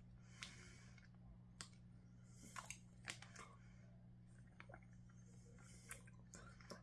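Faint chewing of gummy candy: soft, scattered wet mouth clicks over a low steady hum.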